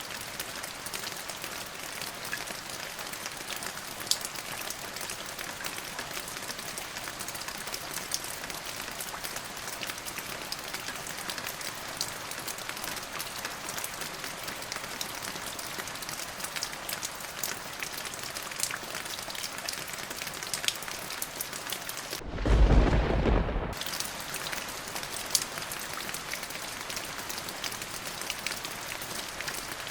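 Steady rain with scattered drop ticks. About three-quarters of the way through, a short low rumble of thunder lasting about a second and a half is the loudest moment.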